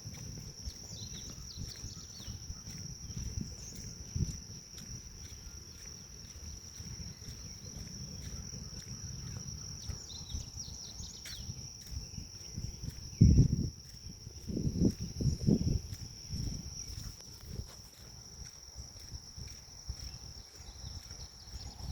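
Grass insects keep up a steady, high-pitched drone, with a few short bird chirps. Low rumbling runs underneath, with a burst of loud low thumps about two-thirds of the way through.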